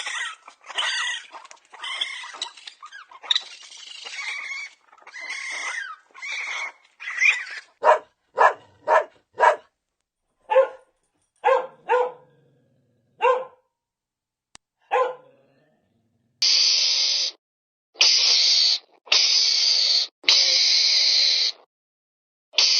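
Dog whining and yipping, pitch bending up and down. It then gives a run of about ten short, sharp barks, the first few close together and the rest more spaced out. Near the end come four harsh, hissing calls of about a second each, from a different animal.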